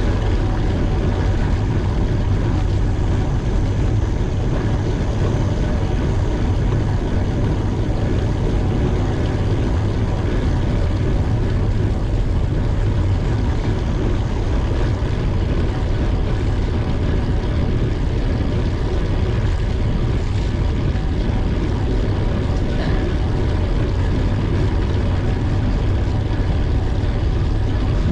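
Steady, heavy wind rumble buffeting the microphone of a camera on a moving bicycle, with a constant low roar and no break.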